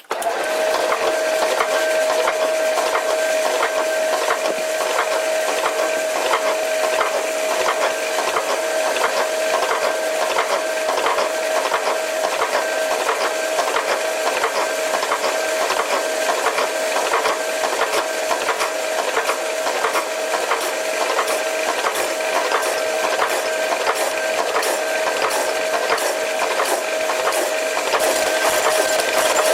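Metal lathe running, with a steady whine and a rapid, regular ticking.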